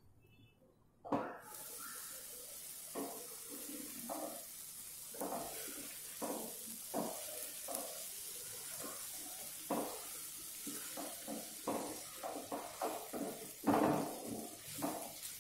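Masala tinda (Indian round gourd) curry sizzling in a nonstick kadai, starting suddenly about a second in. A spatula scrapes and knocks through it again and again as the vegetables are stirred, the loudest stroke near the end.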